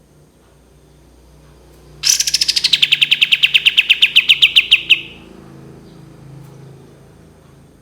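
Kapas tembak songbird singing its 'tembakan' song: a fast, even trill of about ten short notes a second. It starts about two seconds in and lasts about three seconds, dropping slightly in pitch at the start before settling.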